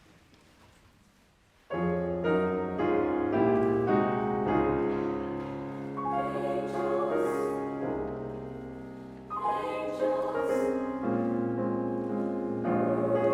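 Choir and piano concert music, starting suddenly with full chords about two seconds in after a near-silent pause.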